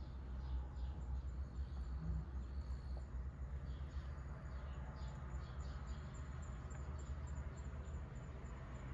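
Insects chirping in a steady high trill, with faint short high chirps scattered through the first half, over a constant low rumble.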